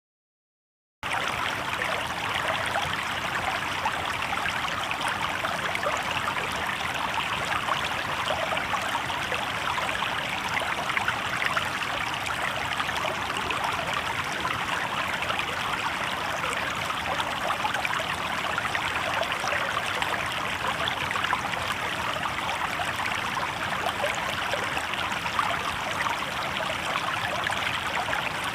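Shallow river water babbling steadily over rocks. It cuts in suddenly about a second in, after dead silence.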